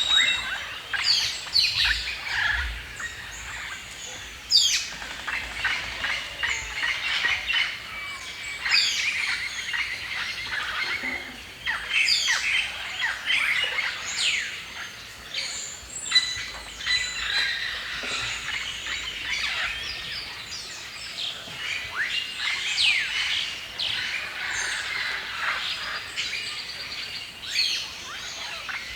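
A chorus of several birds chirping and singing at once: many short, overlapping chirps, whistles and quick trills.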